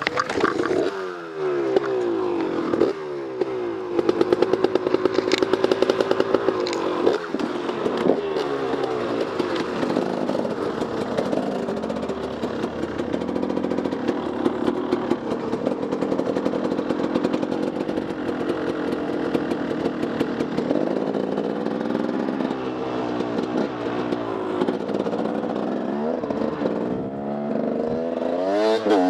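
Enduro dirt bike engine under way on the trail, revving up and dropping back again and again with the throttle and gear changes, holding steadier through the middle. Clattering knocks from the bike over rough ground come through strongly a few seconds in.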